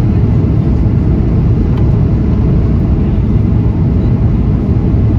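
Steady low rumble of a Boeing 737-800 cabin in flight: the CFM56-7B engines and airflow heard from inside the passenger cabin.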